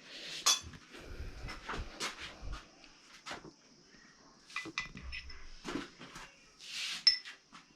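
Dishes and cutlery being handled as food is served: scattered light clinks and knocks of plates, bowls and spoons, with a few brief scraping swishes.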